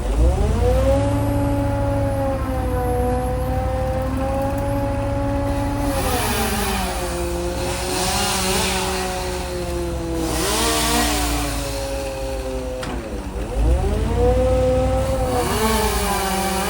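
An engine-driven machine running steadily. Its pitch drags down sharply and climbs back twice, at the start and about 13 seconds in, as it takes a load. Bursts of rushing hiss come and go over it.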